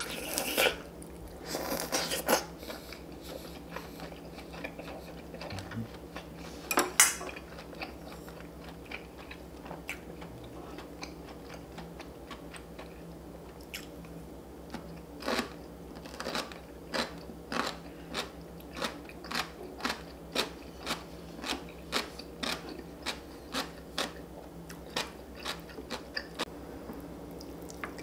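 Crisp crunching bites and chewing of seokbakji (chunky radish kimchi). A few loud crunches come in the first couple of seconds and another about seven seconds in, then from about halfway a steady run of crunches, about two a second.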